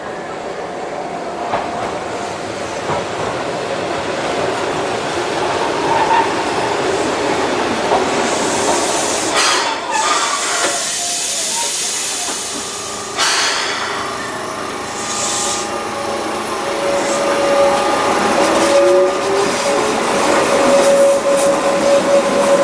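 A Keihan Ishiyama-Sakamoto Line two-car electric train running into a platform and standing, with sharp hisses of air around the middle. Near the end it pulls away, its motors giving a rising whine over a steady tone.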